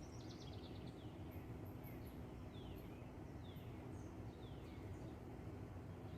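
Birds calling over a steady low background noise: a quick falling trill of high notes right at the start, then several separate downward-sliding whistled calls through the middle.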